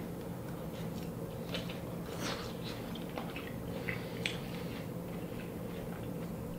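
A man chewing a mouthful of pan-fried lake trout skin: soft, irregular mouth clicks and smacks, over a steady low hum in the room.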